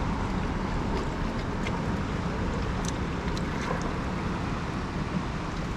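Steady wind rumble buffeting the microphone, with a few faint clicks.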